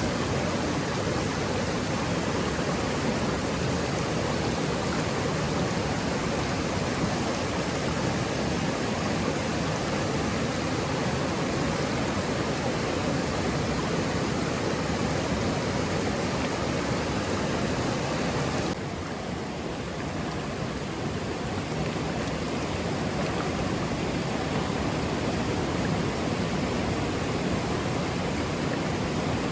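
Steady rushing of water, an even hiss with no distinct splashes, which changes abruptly to a slightly quieter, duller sound about two-thirds of the way through.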